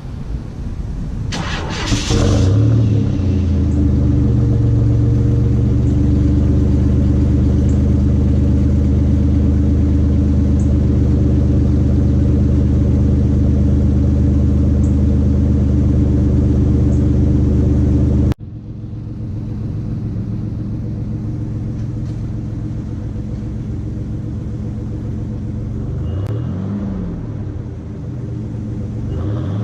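1991 GMC Syclone's turbocharged 4.3-litre V6 breathing through a Borla muffler and dual exhaust. It starts about two seconds in and settles into a steady, deep idle. After an abrupt break it idles more quietly, with two short revs near the end.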